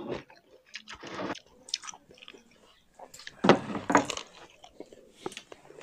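Close-up chewing and biting of people eating chicken gizzard and raw cucumber slices by hand, with scattered wet smacks and a louder stretch about three and a half seconds in.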